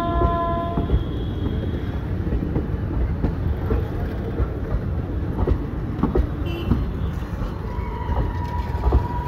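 Train running through a railway station: a steady low rumble with scattered knocks. A short pitched tone dies away about a second in, and a steady high tone starts near the end.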